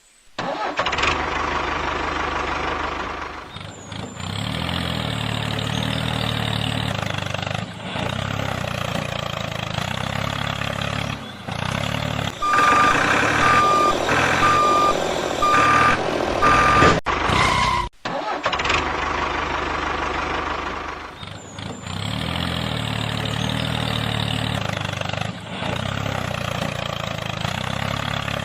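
Tractor engine running steadily, with a reversing beeper sounding four times, about once a second, in the middle; the sound cuts out briefly once past the middle.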